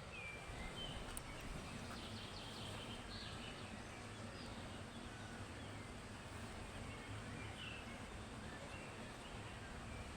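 Steady outdoor background noise with a low rumble, and a few short bird chirps scattered through it.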